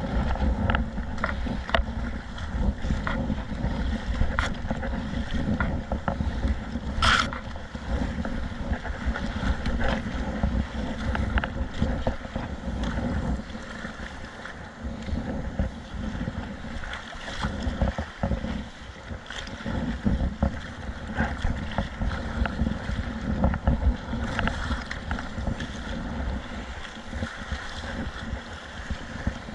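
Wind rumbling on the microphone over water sloshing around a kayak, with scattered light knocks and one sharp click about seven seconds in.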